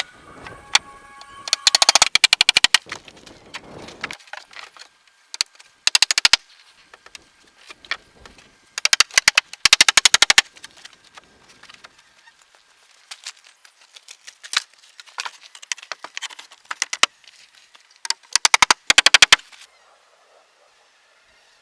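Bursts of rapid, evenly spaced sharp knocks, about a dozen a second, each burst lasting half a second to a second and a half, with quieter gaps between them and fading out near the end.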